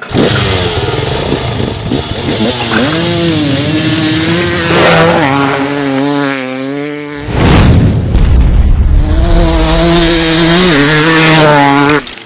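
Motocross dirt bike engines revving hard, the pitch rising and falling as the bikes accelerate and shift, with a loud rushing blast of noise about seven seconds in. The sound stops abruptly near the end.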